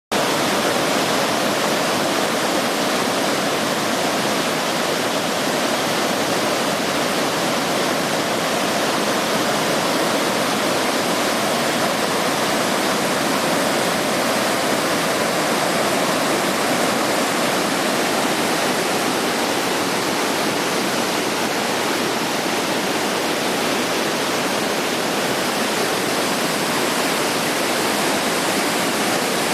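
Fukiware Falls, water rushing and pouring steadily in an even, unbroken roar of noise.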